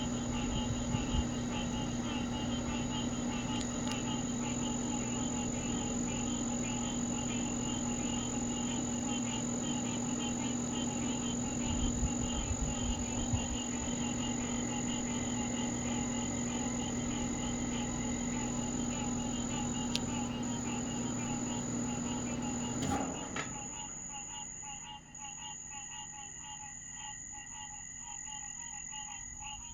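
Night chorus of frogs and insects, a continuous pulsing trill with a steady high whine above it. A steady low hum underneath stops abruptly about three-quarters of the way through.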